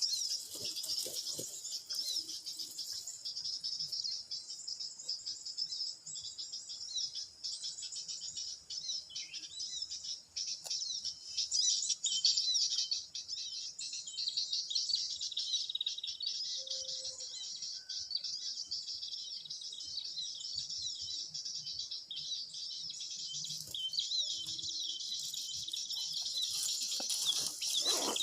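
Dense, unbroken high-pitched twittering of many small birds.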